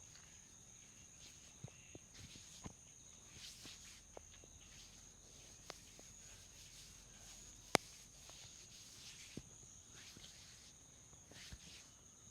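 Faint rustling of hands rubbing through hair and scalp during a head massage, with scattered small clicks and one sharper click a little before eight seconds in, over a steady high-pitched tone.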